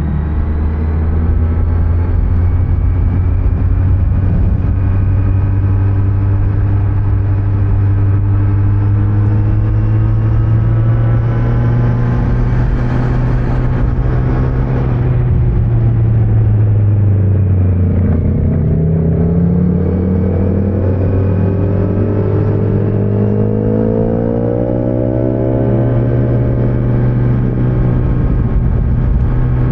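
Kawasaki Z900 inline-four motorcycle engine running under way with road and wind noise. A short rush of noise comes about halfway through, the engine note dips, then it climbs steadily for several seconds as the bike accelerates, and settles again near the end.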